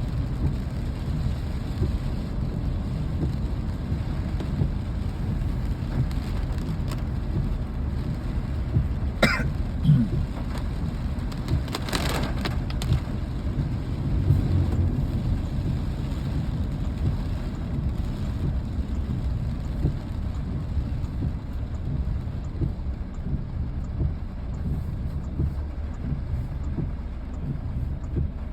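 Steady rain with a constant low rumble underneath. A sharp click comes about nine seconds in and a short rush of noise at about twelve seconds.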